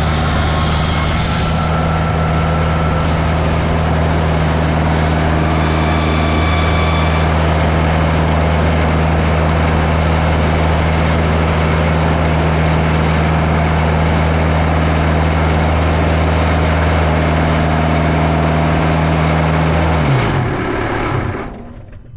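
Portable bandsaw sawmill cutting a white cedar log: its engine runs steadily under the hiss of the band blade in the wood, which is described as really dusty and loud. The hiss thins about seven seconds in, and about twenty seconds in the engine winds down and the sound drops away.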